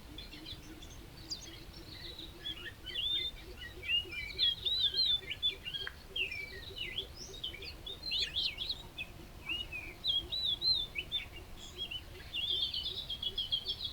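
Small birds chirping and twittering: many short, high, quickly rising and falling calls, coming thickest in a rapid run near the end.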